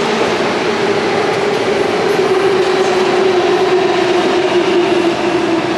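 Passenger train running, with a steady whine slowly falling in pitch over the rumble of the ride, as when it eases off speed.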